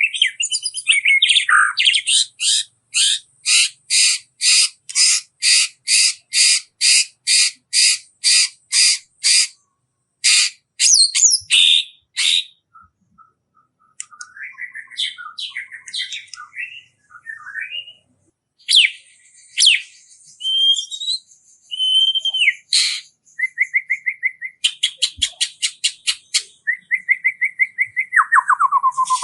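Small songbirds singing: a long run of evenly spaced sharp, high notes, about two a second, then a jumble of varied whistled notes and fast trills, with a trill falling in pitch near the end.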